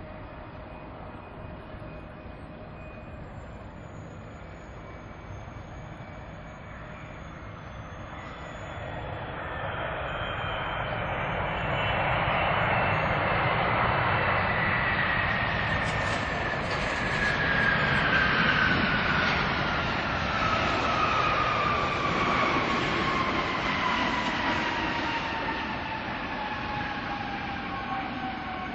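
Jet airliner's engines as the aircraft passes close by. The engine noise swells from about eight seconds in and is loudest midway. Its whine slides steadily down in pitch as the plane goes past, then eases off slowly.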